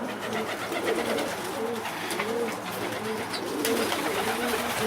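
Many domestic pigeons cooing together in the loft, overlapping rising-and-falling coos throughout, with scattered light clicks and taps.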